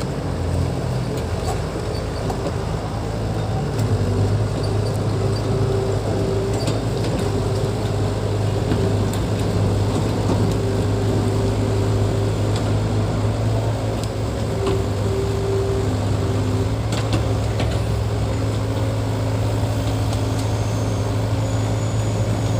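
Diesel engine of heavy earthmoving equipment running steadily under load, with a deep steady hum that grows a little louder about four seconds in.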